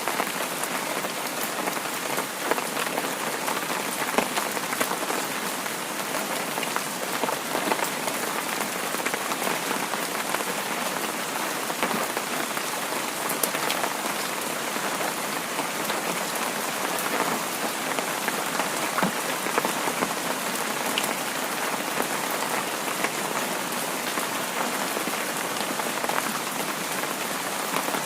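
Heavy rain falling steadily, a dense even hiss scattered with sharper ticks of individual drops.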